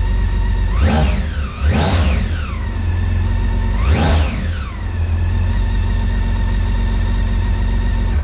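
BMW K1600GTL's inline six-cylinder engine idling through its exhaust, blipped three times, twice close together about a second in and once more about four seconds in, each rev rising and falling back to a steady idle. The sound stops abruptly at the end.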